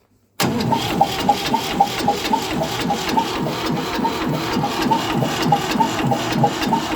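Engine starting from cold, catching suddenly about half a second in and then idling with a steady, even beat.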